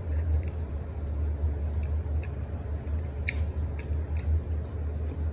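A person chewing a freshly boiled peanut, with small scattered clicks and crackles from the soft, wet shell being handled, the sharpest about three seconds in. A steady low hum runs underneath.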